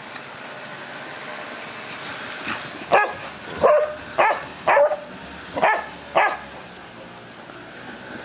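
A dog barking about six times in quick succession, a few seconds in, over a steady background hiss.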